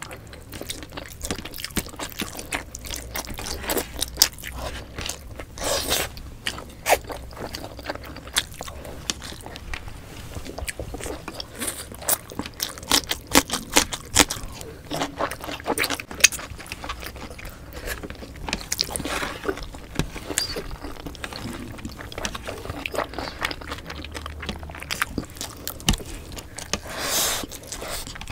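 Close-miked eating sounds of pork belly adobo and rice eaten by hand: chewing and wet mouth clicks and smacks, irregular and constant, with a few longer wet stretches and fingers scraping rice off a wooden board.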